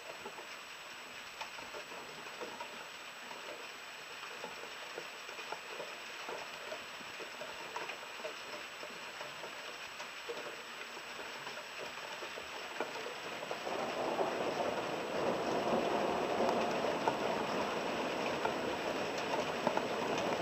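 Rain pattering, with many small drop ticks; it grows louder about two-thirds of the way through and stays so.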